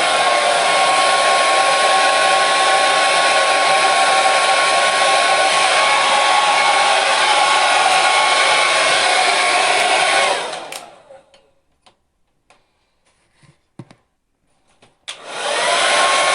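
Hair dryer blowing with a steady whirring hiss and a constant motor whine. About two-thirds of the way through it is switched off and winds down. After a few seconds of near silence with faint clicks it is switched on again, the whine rising back up to full speed.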